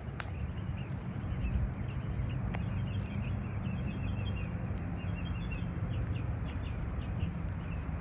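Small birds chirping, a quick run of short high notes in the middle, over a steady low rumble of walking and wind on the microphone.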